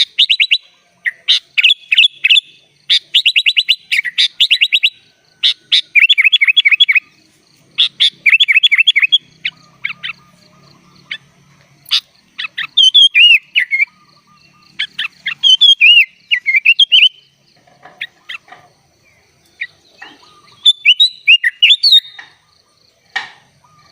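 Sooty-headed bulbul (kutilang) singing: fast runs of repeated chirps at first, then looping, up-and-down whistled phrases with short pauses, a song filled with phrases mimicked from other birds.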